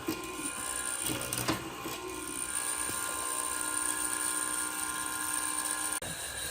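A small high-speed power tool running with a steady whine, with a few brief scraping noises early on; it breaks off abruptly near the end.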